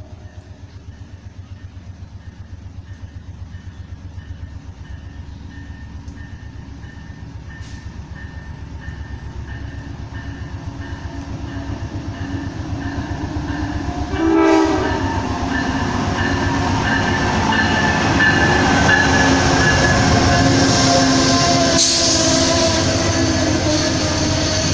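A train approaching with a rhythmic rumble of wheels on rail that grows steadily louder. About halfway through there is a short horn blast, and the train then passes close and loud.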